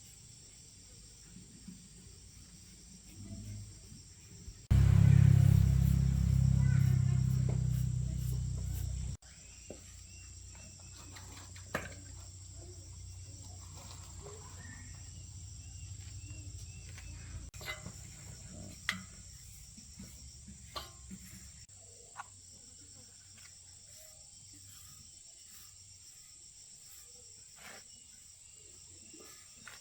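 Workshop sounds: scattered metal tool clicks and clinks over steady high insect chirping. A loud, low machine sound starts about five seconds in, runs for about four seconds and cuts off suddenly, then a fainter low hum carries on for a while.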